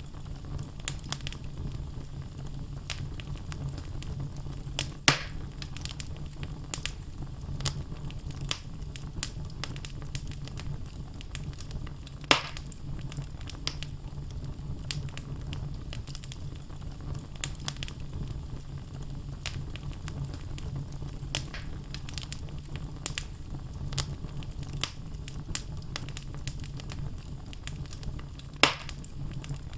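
Wood logs burning in a fireplace: a steady low rush of flame with frequent small crackles, and three sharp louder pops spread through.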